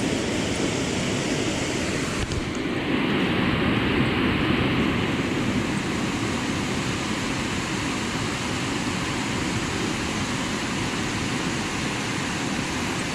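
Steady rush of falling water from a waterfall, a little louder for a couple of seconds a few seconds in.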